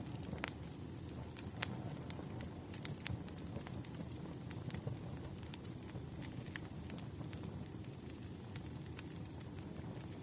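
Burning firewood crackling: a steady low rushing sound with frequent irregular sharp pops and snaps. A faint thin high tone comes in about halfway.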